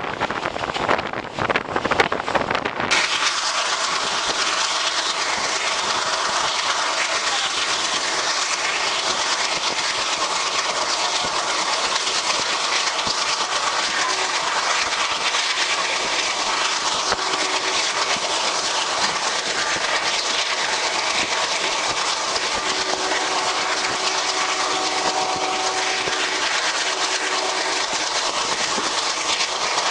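Wind buffets the microphone at the open door of a moving passenger train for the first few seconds. The sound then changes abruptly to the steady rushing running noise of the train travelling along the track.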